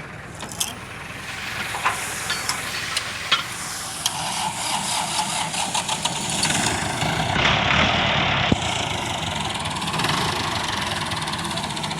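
Tractor engine running, growing louder about a third of the way in, with a few clicks early on and a brief hiss about two-thirds through.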